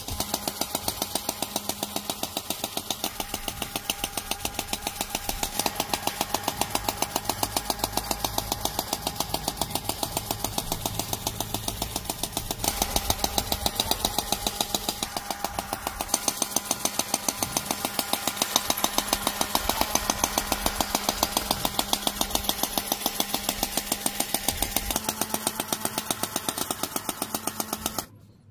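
Small homemade metal tractor machine running, with a fast, even, rattling knock from its grinder gears. It gets louder about halfway through and stops abruptly near the end.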